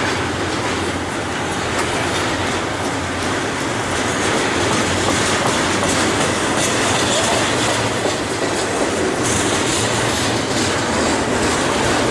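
BNSF double-stack container freight train rolling past at close range: a steady, loud noise of steel wheels on rail.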